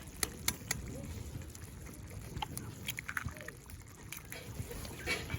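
Cookware and utensils being handled: a few light clicks and taps spread through, over a low steady rumble.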